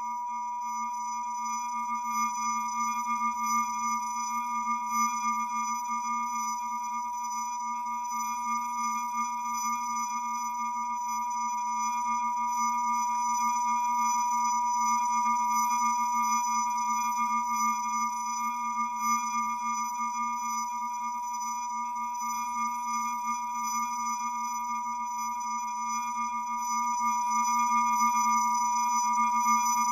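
A steady electronic drone: a held high tone with several fainter tones above it, over a low wavering hum. It runs unbroken and grows slightly louder near the end.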